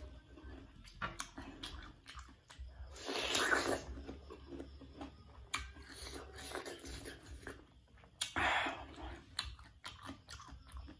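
Close-up chewing and biting of young pineapple: wet mouth clicks and crunching, with two louder, longer mouth noises about three seconds in and again about eight and a half seconds in.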